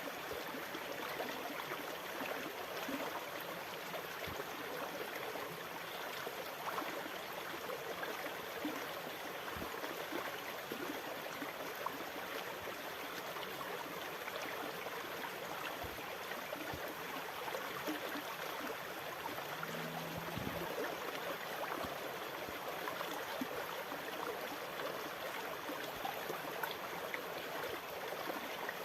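Steady sound of moving water, even and unbroken throughout.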